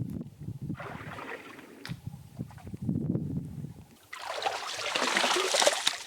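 Water sloshing and splashing in a shallow spring pool being cleared of mud, with a louder, steady rush of water for the last two seconds.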